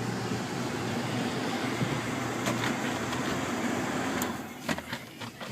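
The rear climate-control blower in a 2002 Ford Expedition runs with a steady rush of air. It drops away suddenly about four seconds in, followed by a few light clicks.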